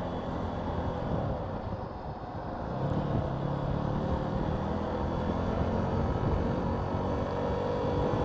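Motorcycle engine heard from on board while riding, with wind noise on the microphone; the engine note eases off about two seconds in, then picks up and climbs as the bike accelerates away.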